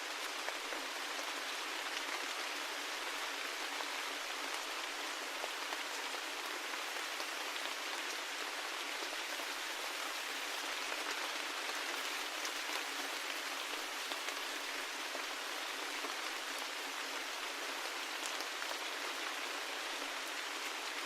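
Steady rain falling, an even hiss with scattered faint drop ticks and no low rumble.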